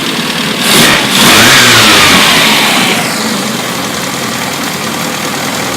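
Rebuilt 1380 cc Mini A-series four-cylinder engine starting up. It catches about a second in, runs briefly louder with its pitch falling away, then settles into a steady idle from about three seconds in.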